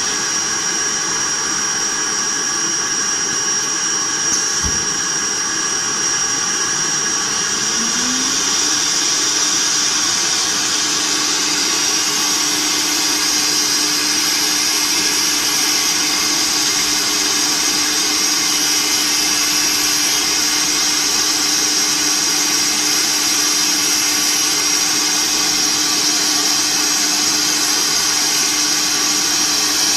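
Multi-head CNC router running, with a steady high whine over loud machine noise. About eight seconds in, a lower tone rises and then holds steady.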